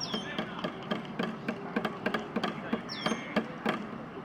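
Irregular sharp claps or knocks, several a second, with a few short high falling chirps.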